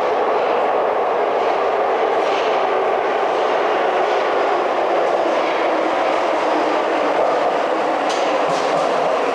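Rail vehicle running steadily on track: an even, unbroken rumble, with a few faint clicks near the end.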